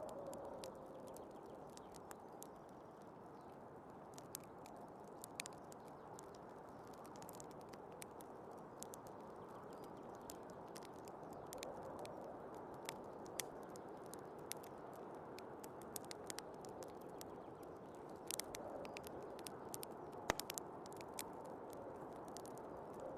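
Wood fire crackling in a fireplace, with irregular sharp pops and one louder pop near the end, over the steady rushing of snowstorm wind.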